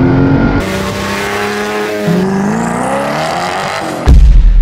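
Koenigsegg supercar's V8 engine in abruptly cut clips, first heard from inside the cabin, then accelerating hard with its pitch rising. About four seconds in, a sudden, much louder deep engine blast takes over.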